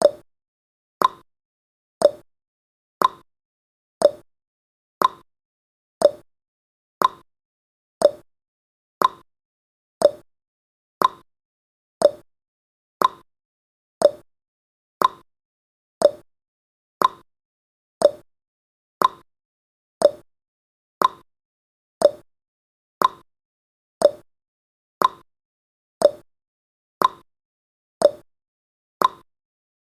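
Clock-tick sound effect of a countdown timer, one short sharp tick every second at a steady pace.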